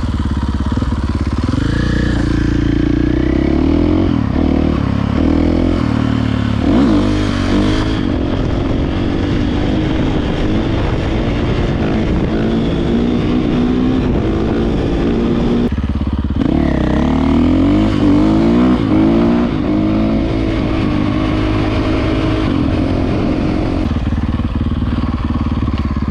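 Dirt bike engine running while riding, its pitch rising and falling again and again as it revs up and shifts.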